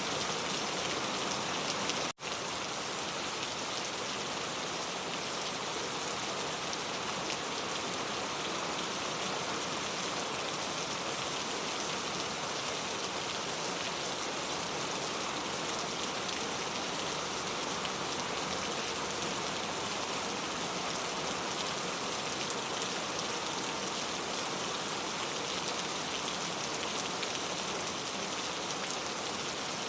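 Steady heavy rain, a dense even patter of drops. The sound cuts out for an instant about two seconds in, a seam in the recording, then carries on unchanged.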